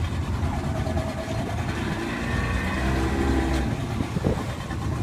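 Tour boat's engine running steadily at low speed, with a low rumble and a brief shift in its pitch about two to three seconds in.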